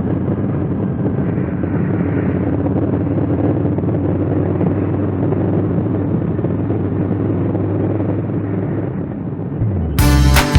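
2019 Honda Africa Twin CRF1000L's parallel-twin engine running steadily under way, with wind and road noise. It fades near the end and music begins.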